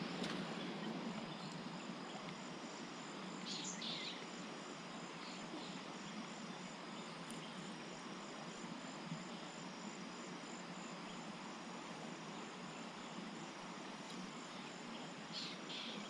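Steady high chirring of insects, with a faint even hiss under it and two short high calls, one about four seconds in and one near the end.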